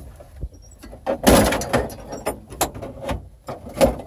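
Dashboard parts of a GMC truck being pried and torn apart: scattered clicks and clatter, a loud scrape about a second in, and a sharp knock near the end.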